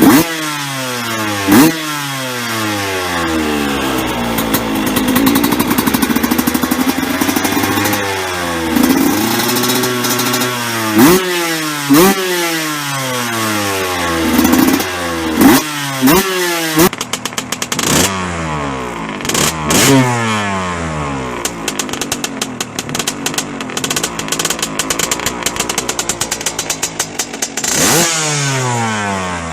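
Suzuki RM 125 single-cylinder two-stroke engine with an aftermarket exhaust, revved in repeated sharp blips, each rising quickly and falling away. About halfway through, a different recording starts: the engine idles with a fast, even popping between a few more blips.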